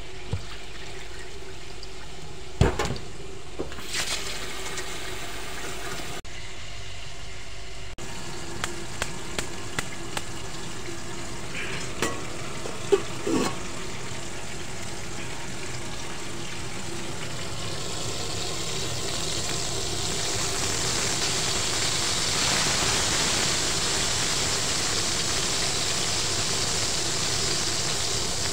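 Floured chicken pieces frying in hot oil in a pan: a steady sizzle that builds and grows louder through the second half. Earlier there are a few sharp knocks of a stainless-steel pot and its lid.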